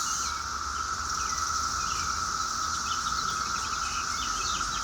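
Steady chorus of insects, two constant high-pitched drones, with wild birds chirping over it, the chirps thickening into a quick run of short calls in the second half.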